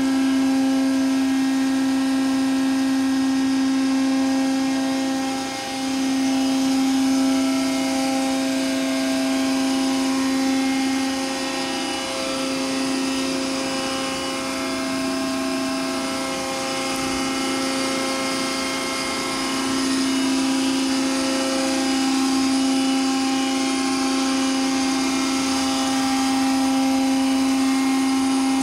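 Hydraulic pump unit of an Eaton Leonard VB300 CNC tube bending machine running with a steady hum, dipping briefly about five and a half seconds in and again around twelve seconds.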